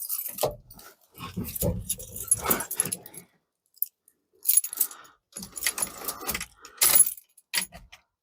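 Keys jangling and rattling in irregular bursts, with small handling clicks in between.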